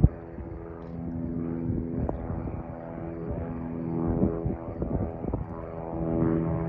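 Light single-engine propeller airplane's piston engine running at a steady pitch.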